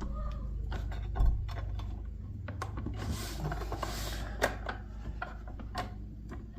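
Rubber radiator hose and plastic dishwasher pump parts handled and pushed together: irregular clicks and taps with a rubbing stretch near the middle and a louder knock about a second in, over a steady low hum.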